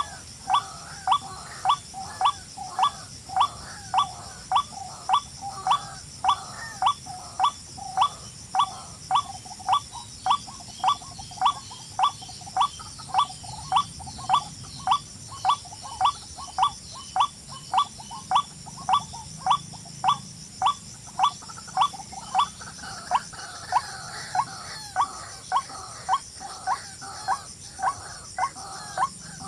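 A bird calling over and over, a short rising note about twice a second, with a steady chorus of insects behind it.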